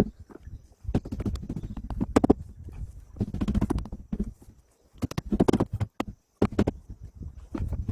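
Irregular clusters of knocks and clatter in bursts of about a second, separated by short pauses.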